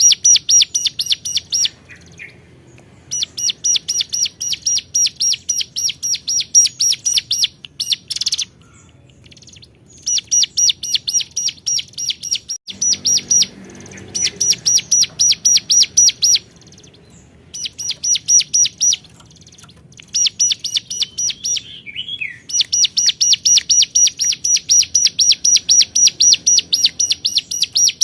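Ciblek gunung (hill prinia) singing a loud, rapid "cuap cuap" call: runs of evenly repeated high notes, about four or five a second, each run lasting a few seconds, with short pauses between runs. This is a territorial call aimed at rivals.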